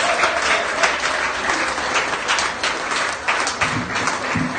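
A crowd applauding: dense, continuous hand-clapping, with a few low thumps near the end.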